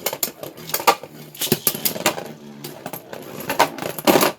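Two Beyblade Burst tops, one with a 3D-printed plastic layer, clashing in a stadium: rapid, irregular plastic clacks and knocks over a faint steady hum of spinning. The sound cuts off suddenly near the end.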